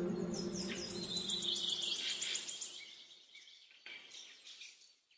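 A bird singing a fast trill of high chirps that falls in pitch, followed by a few fainter calls near the end. At the start, the reverberant tail of a recited voice dies away.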